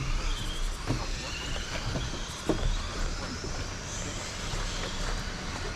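Electric motors of radio-controlled 2wd stadium trucks whining in rising and falling pitch as they drive on a dirt track, with a few short knocks.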